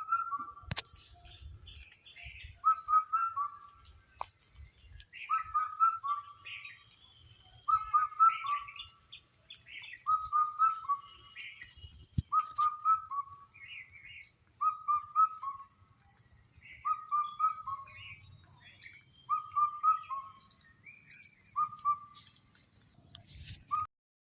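A bird calling a short phrase of three or four quick whistled notes, repeated about every two seconds, with fainter chirps from other birds and a steady high hiss behind it that cuts off suddenly near the end.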